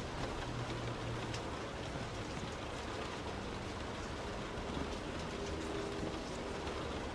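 Heavy rain on a car as it drives: a steady hiss of rain, with a low drone of the moving car underneath.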